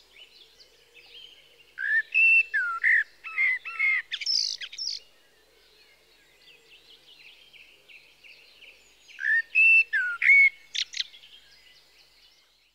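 A songbird singing: two bursts of quick whistled and chirping notes, the first about two seconds in and the second about nine seconds in, with faint chirps between.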